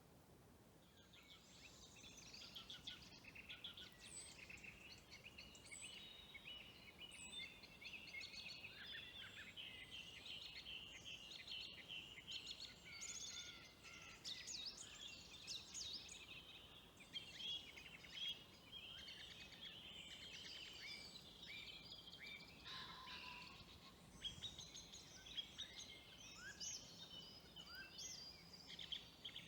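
A faint, busy chorus of high-pitched chirping and chattering bird calls from a pond in the dark, which the walker takes for ducks.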